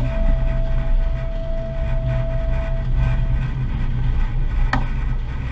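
Electric streetcar running: a steady low rumble with a held motor whine that fades out a little over three seconds in, and a sharp click at the start and another near the end.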